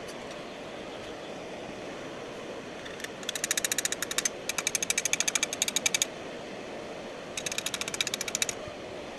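Three bursts of rapid, evenly spaced mechanical clicking, about a dozen clicks a second, over a steady background hum.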